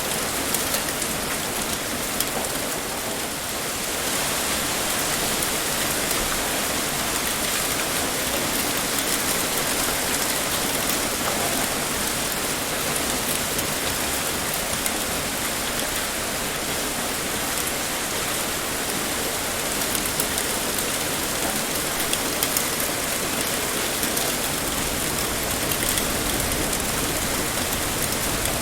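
Heavy rain pouring steadily, with a dense patter of drops striking a surface.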